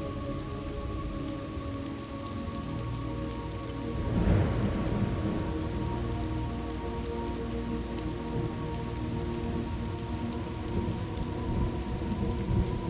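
Steady rain from a thunderstorm ambience track, with a thunderclap about four seconds in that rumbles on and fades slowly. Faint steady tones run underneath.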